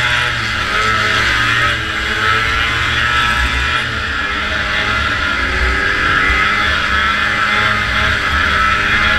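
Antique racing snowmobile's two-stroke engine running hard, its pitch rising and falling with the throttle, under a loud steady rushing noise.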